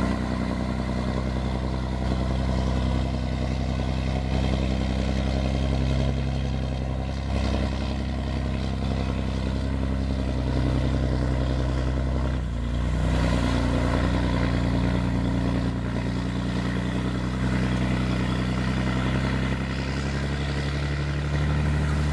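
Scania 113 truck's diesel engine running steadily, its pitch shifting a little a few times.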